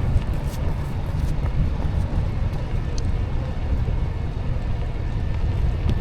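Wind buffeting the microphone of a camera on a moving e-bike: a steady low rumble of rushing air, with a faint click about three seconds in.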